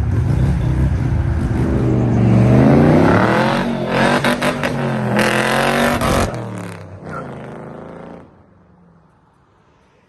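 Car engine revving hard and accelerating, its pitch climbing. It runs loud for a few seconds, then cuts back and fades away in the last few seconds.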